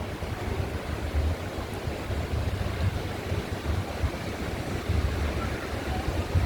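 Wind buffeting the microphone in uneven gusts over a steady wash of ocean surf.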